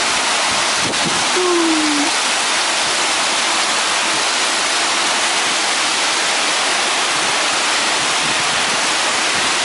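Heavy thunderstorm rain pouring down in a strong wind: a loud, steady hiss of downpour.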